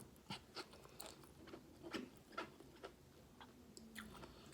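Faint, irregular clicks and crunches of a person chewing and biting chicken adobo with yardlong beans.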